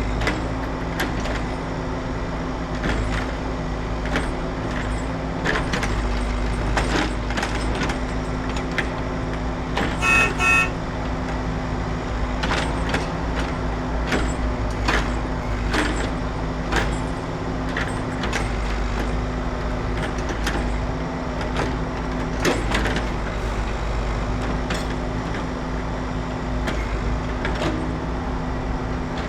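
Steady engine drone with scattered short clicks and knocks throughout, and two quick horn toots about ten seconds in.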